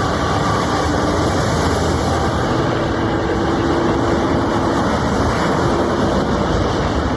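A heavy machine running with a steady rushing noise and faint droning tones, unbroken throughout.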